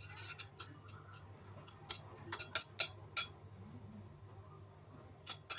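Light clicks and taps of a spoon against a pressure cooker while cooked tomatoes are lifted out. The taps are scattered, with a cluster a little past the middle and a couple more near the end.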